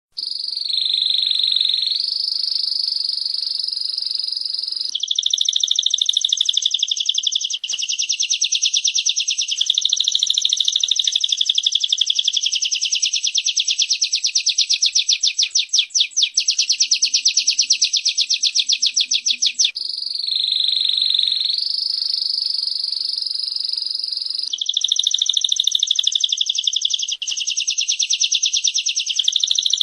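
Recorded song of a female prenjak (prinia) and a canary: fast, very evenly pulsed high trills that shift pitch every few seconds. The pattern of blocks repeats about twenty seconds in, as from a looped recording.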